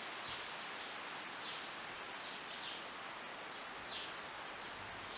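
Outdoor garden ambience: steady background noise with several short, falling bird chirps.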